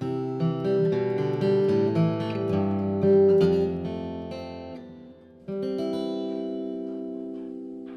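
Intro music played on acoustic guitar: plucked notes and strummed chords, with a phrase that fades out and a new chord struck about five and a half seconds in, left ringing.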